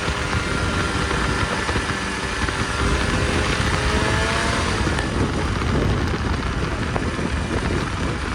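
Snowmobile engine running, its tone wavering up and down and fading out about five seconds in, over a steady rushing, rumbling noise.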